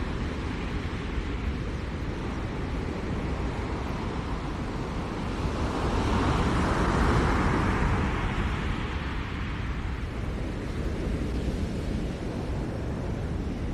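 Ocean surf on the shore: a steady rumble of waves, with one wave breaking and washing in that swells from about six seconds in, peaks, and fades by about nine seconds.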